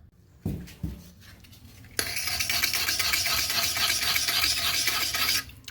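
Pumice stone scrubbing marks off a porcelain toilet, a steady rapid scratching that starts about two seconds in and stops just before the end. Before it come a couple of light knocks as the stone is picked up and set against the porcelain.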